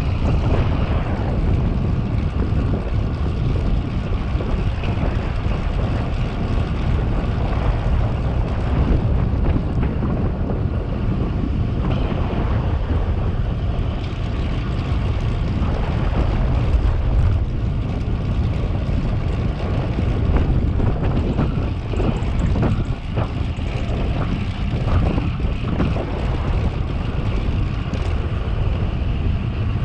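Wind buffeting the microphone while riding a bicycle at speed: a steady, rough rumble that flutters in strength, heaviest in the low end.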